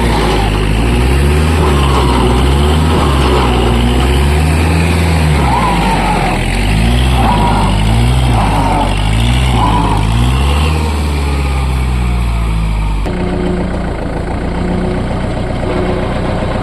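Kubota MU4501 tractor's diesel engine revving up and down over and over as the tractor works to pull a loaded trolley out of mud. About thirteen seconds in, the engine drops to a steadier, lower running speed.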